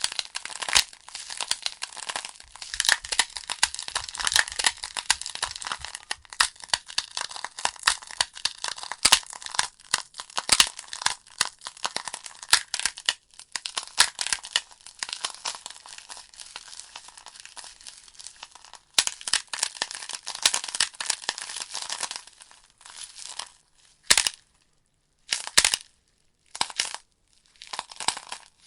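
Burning logs in a fireplace crackling and popping in a dense, irregular run of sharp snaps, thinning to a few separate pops with short silences near the end.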